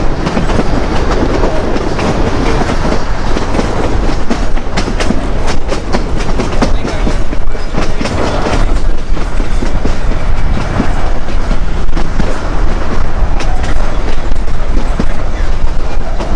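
Durango and Silverton narrow-gauge train rolling along the track, its car wheels clicking over the rail joints above a steady rumble, heard from an open car. The clicks come thicker from about four seconds in.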